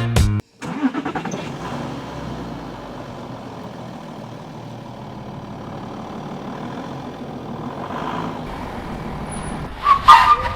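A vehicle engine running steadily, heard outdoors, after a music intro cuts off about half a second in; a short, louder sound breaks in near the end.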